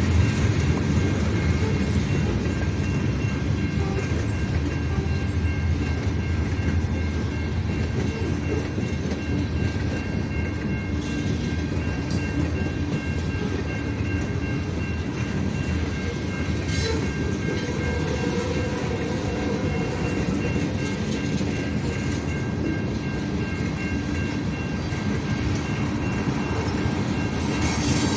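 Freight cars of a Canadian National mixed-freight manifest train rolling past with a steady, loud rumble, a few faint high tones held above it.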